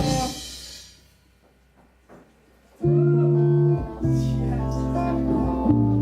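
Live rock band cuts off on a sharp ensemble hit that rings away to near silence, then about three seconds in the guitar and bass come back in with loud held chords, broken by short stops.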